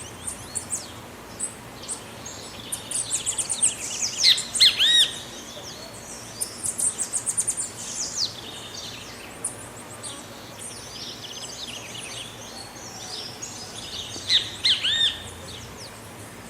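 Great kiskadee calling: bouts of quick, sharp chirps mixed with arched, down-sliding notes, the loudest groups coming about four seconds in and again near the end, over a steady background hiss.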